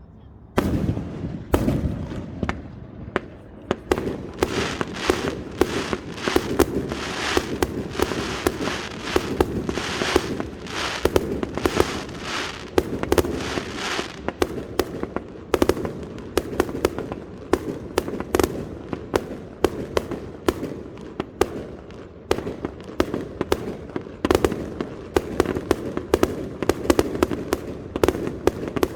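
Fireworks display: after a brief quiet, a loud bang about half a second in starts a dense, unbroken barrage of shell bursts and crackling that keeps going.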